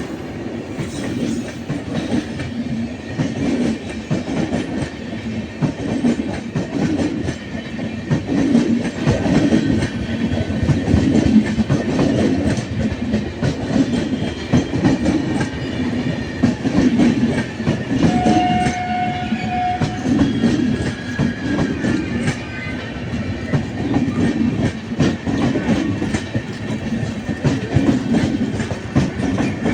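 Indian Railways passenger train running on the track, its wheels clicking over the rail joints in a steady repeating rhythm. A brief steady tone sounds about two-thirds of the way in.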